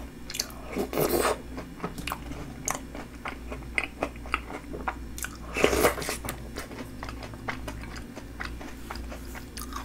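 Close-miked chewing and crunching of snack bingsu: cream-puff snack balls and chocolate cereal in milk and shaved ice, with many small wet mouth clicks. Two louder moments come as spoonfuls go in, about a second in and a little past halfway.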